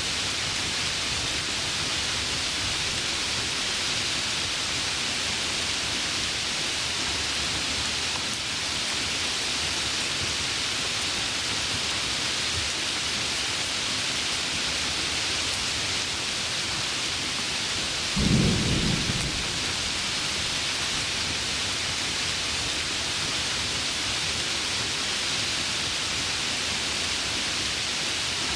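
Heavy rain falling steadily, with one short low thunderclap about two-thirds of the way in.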